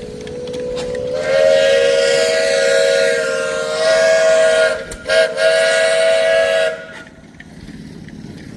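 Steam whistle blowing one long blast of several close tones. It starts faintly, swells to full after about a second, breaks off briefly about five seconds in, then sounds again before stopping near the end.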